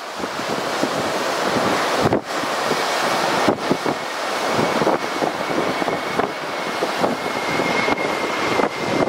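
Strong gusting wind buffeting the microphone, the loudest sound throughout. From about three seconds in, a faint steady high whine joins it: the engines of an Airbus A320neo on its landing approach.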